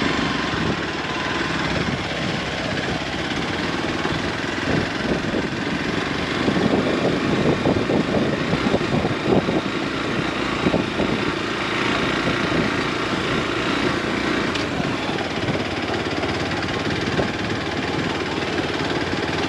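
Motor vehicle on the move: steady engine and road noise.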